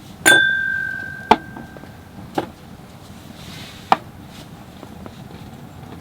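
A sharp metallic clang that rings on a clear tone for about a second and a half, followed by three separate knocks spaced about a second apart.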